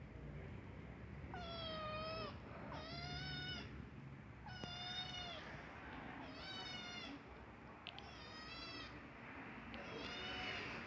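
A kitten meowing six times, one short high-pitched meow every second and a half to two seconds. The owner says he meows like this when he has to poop.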